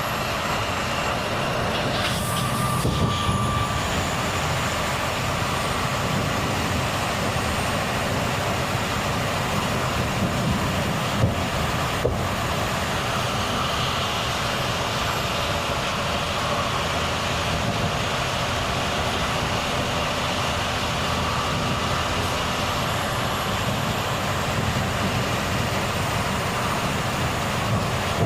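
Volvo FH truck on the move: steady diesel engine and tyre-on-road noise. A short rush of noise comes about two seconds in, and two sharp clicks sound around eleven and twelve seconds in.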